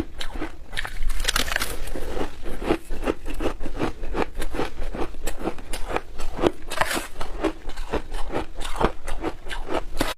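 Close-up biting and crunching of frozen shaved ice in the mouth: a rapid, unbroken run of crisp crunches.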